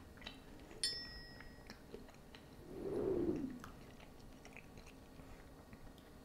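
Quiet chewing of a crispy bacon-wrapped jalapeño popper, with small mouth clicks. A short ringing clink about a second in, and a soft low hum of the voice around three seconds.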